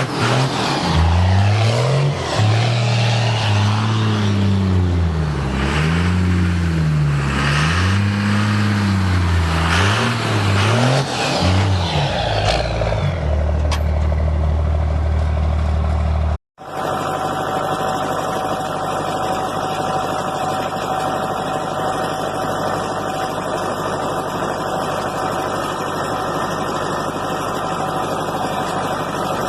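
A truck engine revved again and again, its pitch rising and falling about once a second. It then cuts off suddenly and is followed by a steady engine idle.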